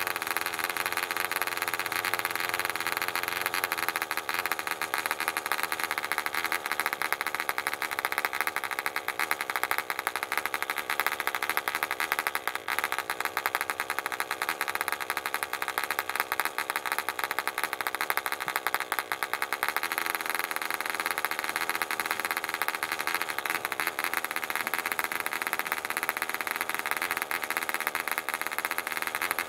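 Barbini B.38 1cc model-aircraft diesel engine running steadily with a 7x4 propeller, its speed wavering a little in the first few seconds and again near the middle. The owner puts the slightly uneven running down to the engine being new and not yet broken in.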